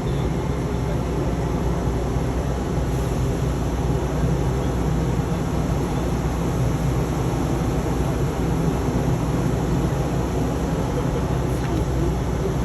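Steady engine and road noise heard from inside a moving vehicle, a constant low rumble with no breaks.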